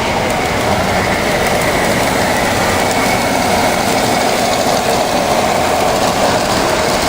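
Model train running on a display layout: a steady mechanical running noise with a constant hum throughout.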